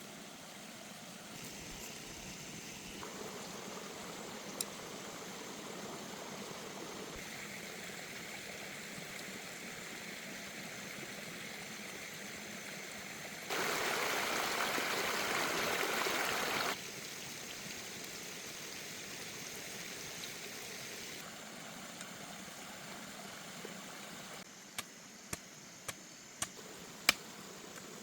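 Running water of a mountain stream, a steady flowing hiss that shifts in loudness and tone in several abrupt steps, loudest for about three seconds in the middle. A few sharp clicks near the end.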